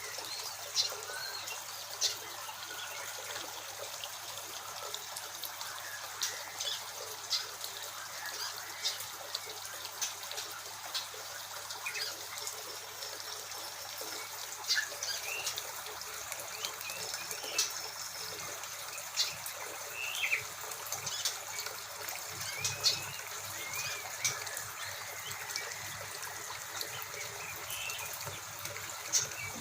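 Small cage birds chirping: many short sharp chirps and a few brief whistled calls, scattered irregularly through the whole stretch, over a steady trickle of running water.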